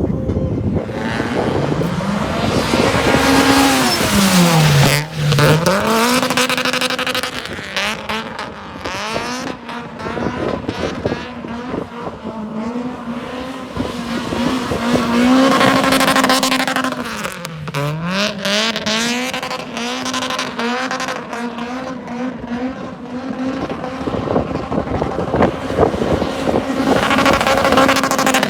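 Car engine held at high revs while drifting, with tyre noise underneath. The note drops sharply and climbs back again about five seconds in, around seventeen seconds, and again at the very end.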